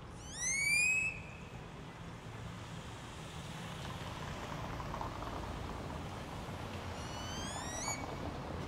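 A bird gives two rising whistles, a loud one about half a second in and a fainter one near the end, over a steady low hum of outdoor background noise.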